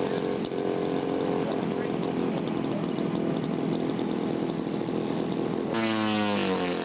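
Engine of a radio-controlled scale model propeller airplane running steadily. Near the end a louder engine note drops sharply in pitch.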